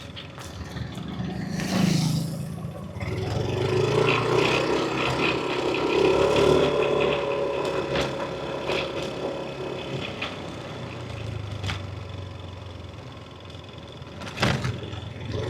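Yamaha NMAX V3 scooter's single-cylinder engine running while riding, with road and wind noise. It pulls harder and louder from about three seconds in, then eases off after about seven seconds. A brief rush of noise comes near two seconds and a sharp knock near the end.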